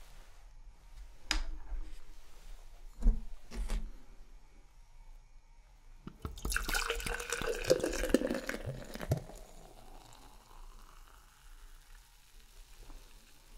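Beer being poured into a glass for about three seconds, starting about six seconds in, its pitch rising as the glass fills. Before it come a few light clicks and taps.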